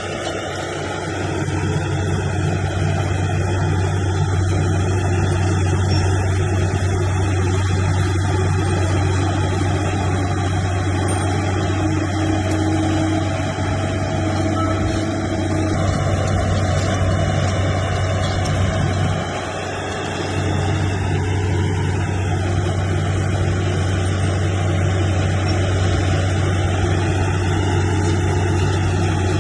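Heavy diesel engine of earthmoving machinery running steadily, with a constant low drone. The loudness dips briefly right at the start and again about two-thirds of the way through.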